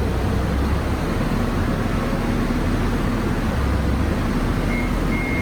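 A vehicle's engine running with a steady low rumble; near the end its reversing alarm starts, sounding evenly spaced high beeps.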